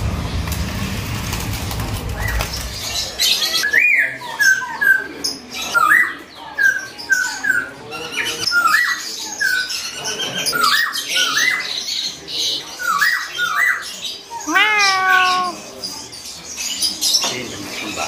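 Caged birds chirping: a quick run of short repeated chirps, with one longer call about fourteen and a half seconds in. A low rumble fills the first three seconds before the chirping starts.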